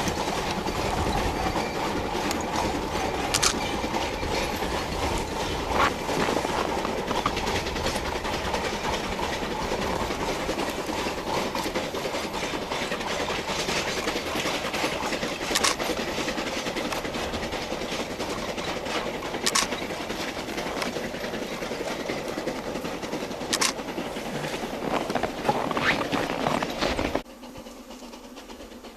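Narrow-gauge coal train running on the track, its wheels clicking over the rail joints at irregular intervals. The sound drops off suddenly near the end.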